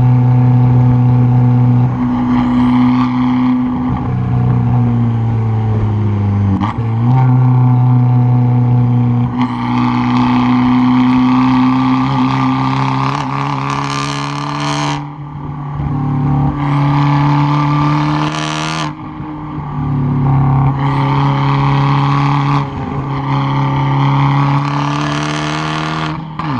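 Tuned 2013 Fiat 500 Abarth's turbocharged four-cylinder exhaust, heard at the tailpipe while driven hard up a mountain road: a loud, steady engine note with harsh bursts of throttle coming and going about five times, and a brief drop in pitch about six and a half seconds in.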